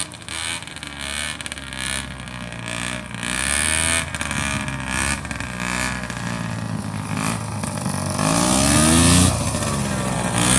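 Airboat's opposed-cylinder engine and propeller running, revving up and down several times, loudest with a strong rev-up near the end.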